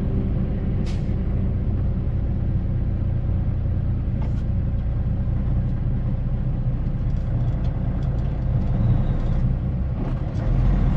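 Tractor-trailer's diesel engine running steadily on the road, a constant low rumble heard from inside the cab, with two brief clicks about one and four seconds in.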